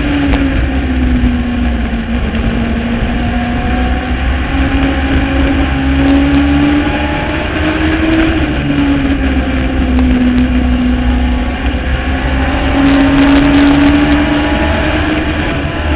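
Legends race car's Yamaha four-cylinder motorcycle engine running at racing speed, its pitch rising and falling every several seconds as it accelerates down the straights and lifts into the turns of a short oval.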